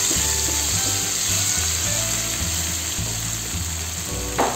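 Chopped garlic and shallots sizzling in hot oil in a nonstick frying pan as they are stirred with a wooden spatula, under background music.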